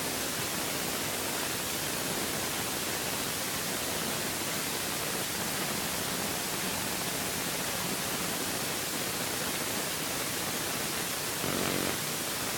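Steady hiss-like rushing noise at an even level, with no bangs or distinct events; a brief low hum swells up near the end.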